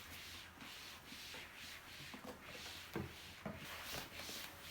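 Rhythmic rubbing strokes against a surface, about two a second, with a couple of soft knocks about three seconds in.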